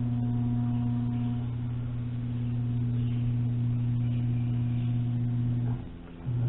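Steady low electrical hum from the sawmill's head up/down motor circuit, fed from a battery charger on a dead battery: there is not enough current to make the motor run. The hum cuts off suddenly near the end, then comes back briefly.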